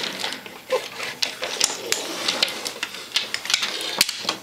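Irregular clicks and clacks of toy train pieces being handled and knocked together on a children's train table.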